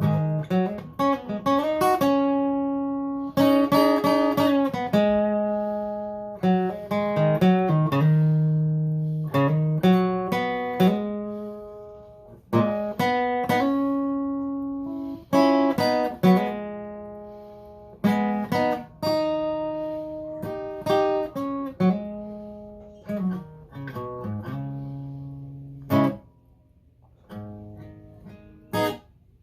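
Solo acoustic guitar playing an instrumental blues passage between sung verses: plucked single notes and chords that ring and die away, thinning to a few quieter notes near the end.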